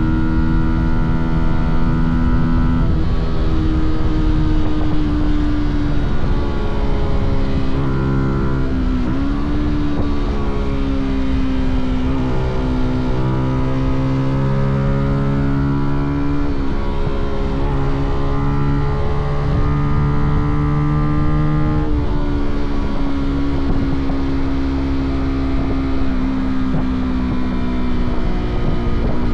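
Fantic Caballero 125's single-cylinder four-stroke engine and exhaust under way on a ride. The engine note rises and falls with the throttle, and it steps several times as the rider changes gear. Low wind and road rumble runs underneath.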